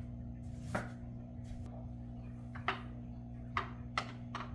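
A broom swept in short strokes, about six brief swishes spaced irregularly across a few seconds.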